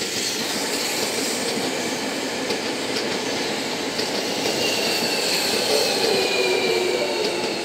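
Seibu 40000-series electric train rolling past close by as it comes in to Kotesashi, wheels on rail with scattered rail-joint clicks. About four seconds in, a thin high squeal sets in and dips slightly in pitch as the train slows, with a lower tone beneath it.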